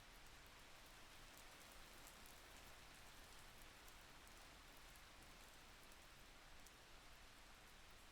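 Faint, steady rain, with scattered small drop ticks on top.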